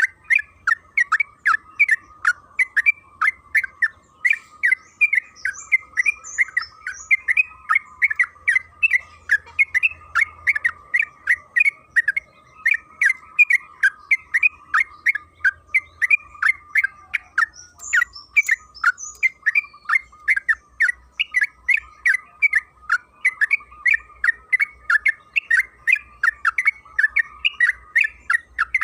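Yellow-vented bulbul (trucukan) singing a long, rapid run of short chattering notes, about three a second without a break. A few faint, higher chirps come in twice.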